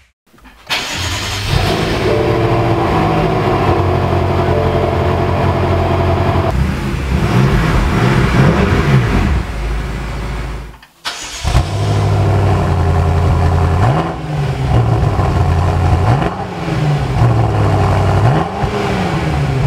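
The 2013 BMW M5's twin-turbo 4.4-litre V8 and its exhaust, coming in suddenly about a second in and settling to a steady idle. It is revved several times, each rev rising and falling, with a brief break about eleven seconds in.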